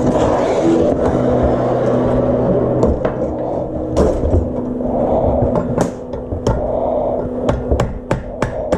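Hammer blows on metal, a few scattered strikes and then a steady run of about three blows a second toward the end, over a steady rushing noise and hum in the first few seconds.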